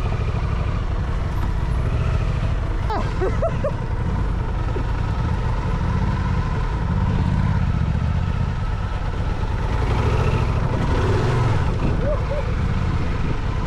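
Adventure motorcycle riding on a dirt track, its engine running under a steady low rumble.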